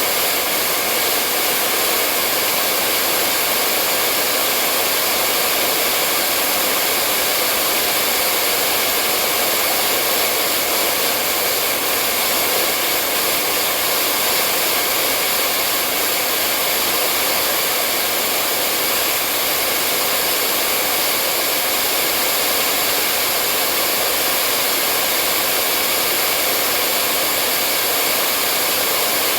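Hair dryer blowing continuously: a steady, even hiss of rushing air with a faint motor hum, with no change in level or pitch.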